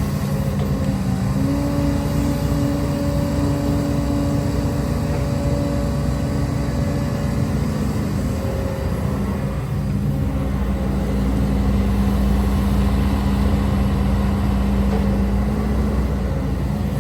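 HIDROMEK HMK230LC excavator's diesel engine running under working load. Its pitch steps up about a second and a half in and drops back around eight seconds, and the low rumble grows stronger in the second half.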